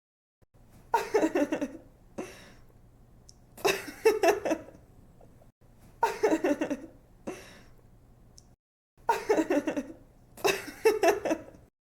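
A woman laughing in five short bursts of quick 'ha-ha' pulses, the bursts a couple of seconds apart, with a faint low hum between them. It is the same recorded laugh repeated as a looped sound effect.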